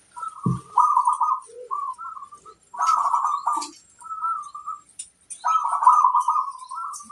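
Zebra dove (perkutut) cooing: a run of soft, bubbling coo phrases repeated with short pauses between them. There is a brief low bump about half a second in.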